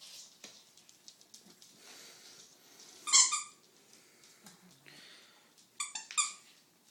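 Young puppies crying in high-pitched squeals: one about three seconds in, then two short ones close together near the end.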